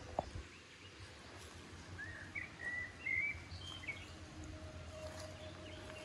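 Songbird giving a string of short chirps over outdoor background noise, with a single click just after the start. A faint steady hum comes in near the end.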